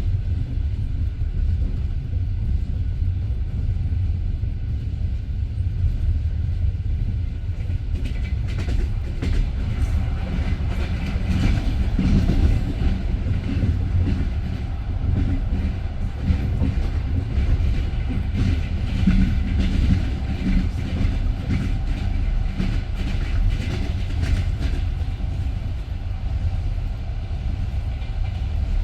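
Passenger train carriage running on the rails: a steady low rumble with the clickety-clack of wheels over rail joints, the clicks sharper and more frequent from about eight seconds in.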